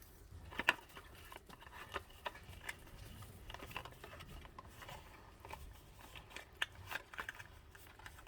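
Scattered light clicks and rustling, like small packaged items being handled.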